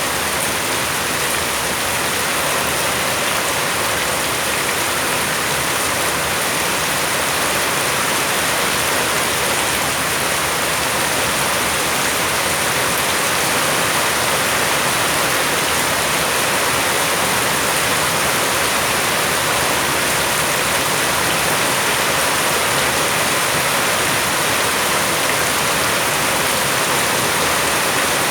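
Steady heavy rain, falling without a break and without any single drops or splashes standing out.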